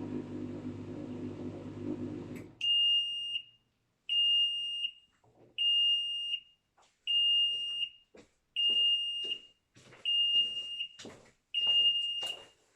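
LG washing machine running with a steady hum that stops abruptly about two and a half seconds in. Its control panel then beeps seven times, a high, even beep roughly every second and a half, with faint knocks between the later beeps.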